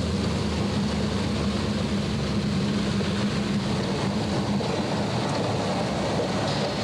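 Steady rushing of hurricane-force wind, with a steady low hum from the car that weakens about four and a half seconds in.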